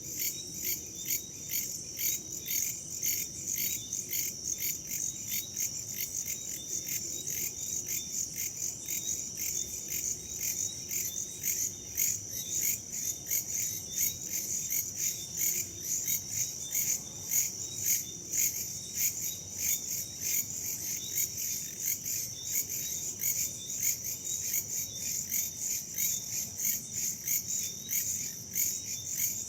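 A chorus of crickets and other insects chirping in rapid, even pulses, high-pitched and unbroken, over a faint low rush of wind.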